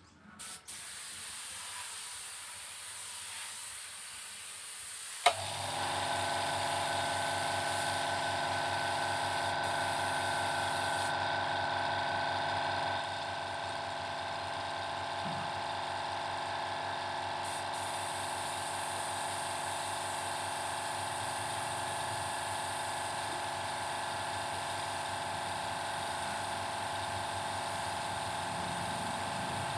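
A spray gun hissing, then an electric air compressor clicking on about five seconds in and running steadily. The high hiss of the spray lets up for a few seconds in the middle while the compressor keeps running.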